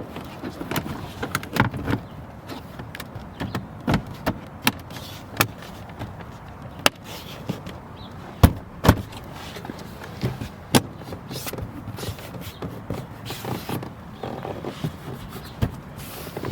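Plastic interior side trim panel of a 2017 Chevrolet Cruze being handled and pressed back into place: a run of irregular sharp clicks and knocks, the loudest a pair about eight and a half and nine seconds in.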